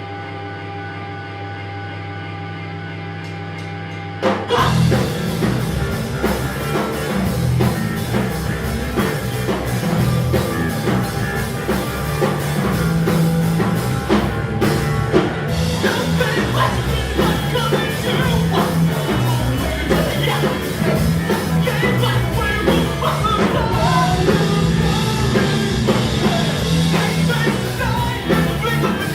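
Live post-hardcore rock band: a held, ringing chord for about four seconds, then the full band comes in loudly with drums and distorted guitars and keeps playing.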